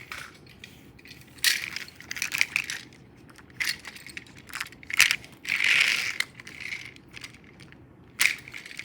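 Toy train engine and trucks being pushed along a toy track, making irregular clicks, clatters and short rattles.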